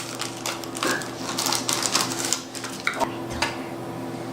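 Rustling and clicking of a snack's plastic packaging being handled and opened, in irregular bursts with the busiest stretch in the middle, over a steady low electrical hum.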